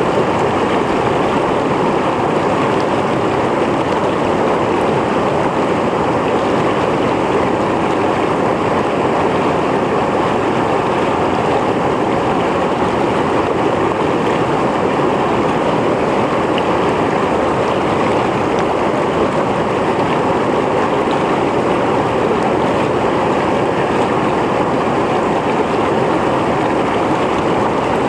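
Mountain stream flowing over rocks: a loud, steady rush of water.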